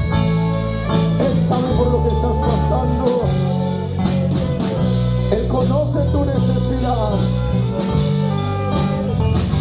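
Live worship band music: sustained bass notes and melodic lines over a steady drum-kit beat with cymbal hits.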